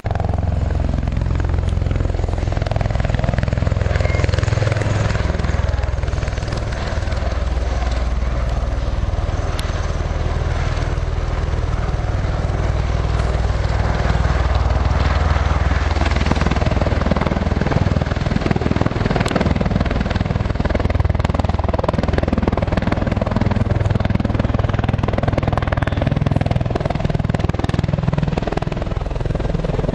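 Aircraft engine noise: a loud, steady drone with a heavy low rumble that lasts throughout.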